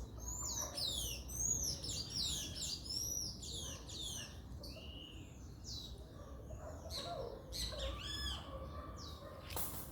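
Birds chirping: a rapid run of high, down-slurred chirps that thins out after about four seconds into scattered calls, over a low steady rumble. A brief burst of hiss just before the end.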